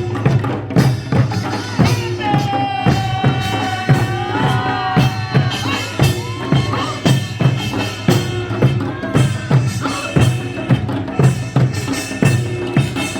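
Korean folk music with drums beating a steady rhythm of about two strokes a second. About two seconds in, a long high held note enters, then wavers and glides into an ornamented melody.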